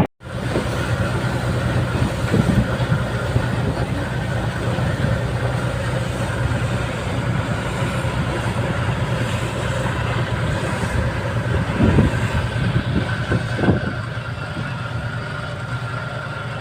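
Steady drone of a ferry's engine, heard on board, with a couple of brief thumps about twelve and fourteen seconds in.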